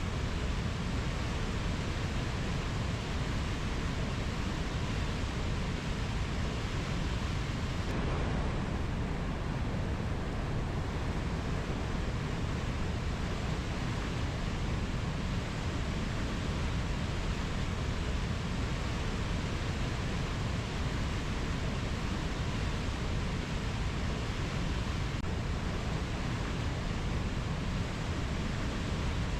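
Steady rushing noise of a rainforest nature-sound track. It stays even throughout and is heaviest in the low end, with no bird or insect calls standing out.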